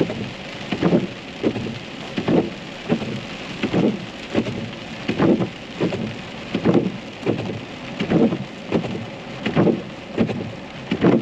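Rain hitting a car's windshield while the wiper blades sweep back and forth in a steady rhythm, a little more than one stroke a second.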